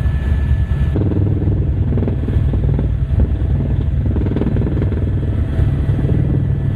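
Helicopter engine and rotor running with a loud, steady low rumble; a thin high whine cuts out about a second in.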